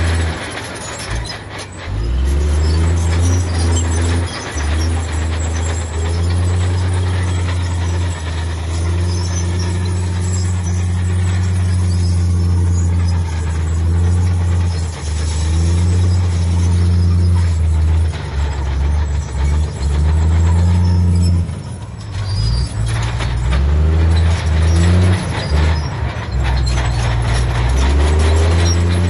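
Heavy diesel engine of earthmoving machinery running loudly under varying load. The engine note drops briefly twice, about a second in and again around twenty-two seconds, before picking back up.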